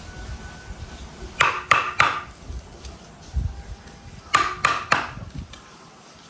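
Sharp knocks on wood, struck in two quick groups of three, each blow about a third of a second after the last, with a short ring after each.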